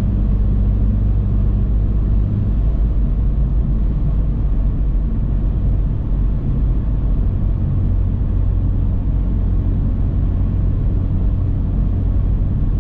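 Car engine and road noise while cruising, heard from inside the car: a steady low drone. The engine's hum changes about two and a half seconds in and settles into a steady tone again from about seven seconds in.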